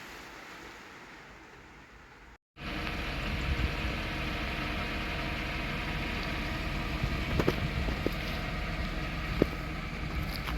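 A faint hiss of rain, then after an abrupt cut a car engine running steadily, with a few light clicks.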